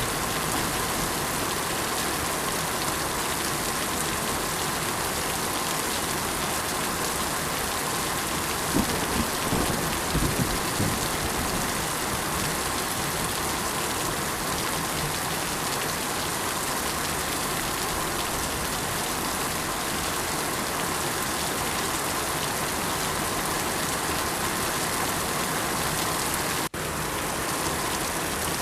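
Steady, even rain falling, with a low rumble swelling briefly about a third of the way in. Near the end the sound cuts out for a split second and comes back.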